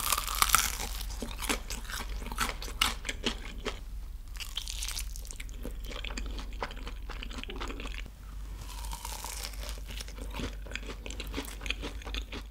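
Crispy fried chicken crunching as it is bitten and chewed close to the microphone: a dense, irregular string of crackles with wet chewing sounds between them.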